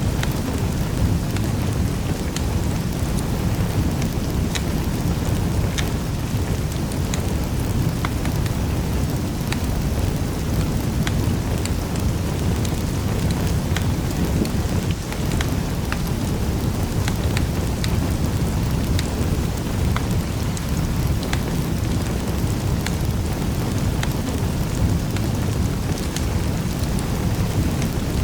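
Wood fire in a fireplace crackling: a steady low rumble of the flames with scattered sharp pops and snaps of burning wood.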